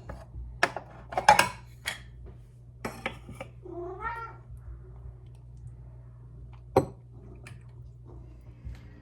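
A house cat meowing once, about four seconds in, among several sharp clinks and clatters of dishes as its food is got ready, with a loud clink about a second in and another near the end.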